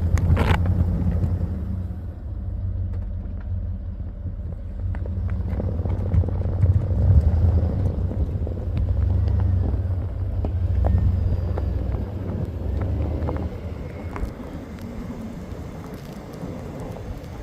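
Engine of a GMC pickup plow truck running with a low, steady rumble, its loudness rising and falling as it plows through deep snow.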